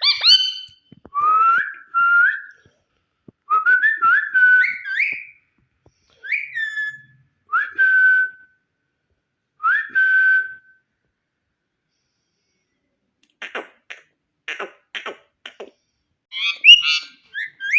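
Green Indian ringneck parakeet whistling: a run of short whistles, several sliding up and then holding a steady note. After a pause it makes soft clicking and chattering near the end.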